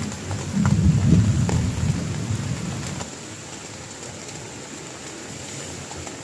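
Heavy rain falling with scattered sharp drop impacts, under a low rumble of thunder that fades out about three seconds in, leaving the rain alone.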